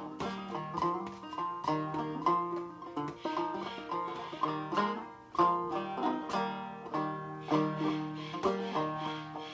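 1895 Cole 3000 banjo being played, a steady run of plucked notes several a second, with stuffing in the back of the pot softening the ring. It is tuned well below standard pitch.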